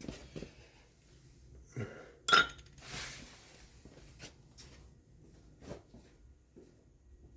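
Metal tools and parts clinking and knocking during mechanical work, with one loud metallic clank about two seconds in that rings briefly.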